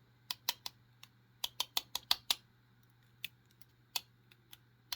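Small sharp metal clicks and taps at uneven intervals, with a quick run of them in the middle: tools and lock parts being handled while a spring is worked out of a pin-tumbler lock's chamber.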